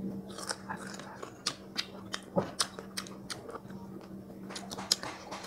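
Close-up crunching and chewing of crisp green mango slices: a run of sharp, irregular crunches.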